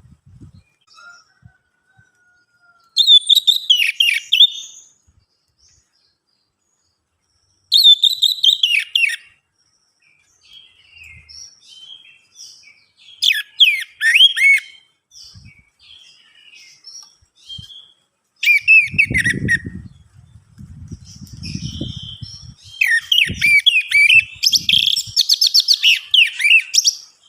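Orange-headed thrush singing: about five bursts of fast, varied warbling phrases with pauses between, the last burst the longest. A low rumble sounds under the song in the second half.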